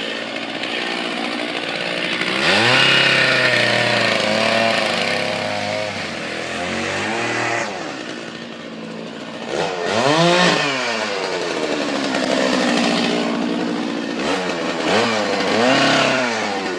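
Chainsaw running hard, its engine pitch rising and falling again and again, with the sharpest climbs about two and a half seconds in and around ten seconds in.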